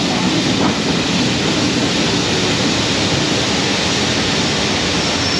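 Steady, loud rushing noise of a train running along the line, heard from on board, with no separate beats or tones standing out.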